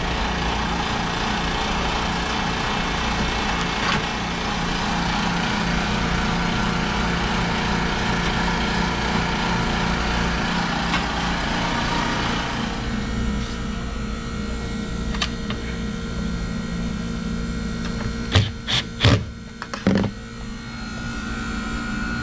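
A steady machine hum that drops away about thirteen seconds in, leaving a quieter hum, followed by several sharp knocks near the end.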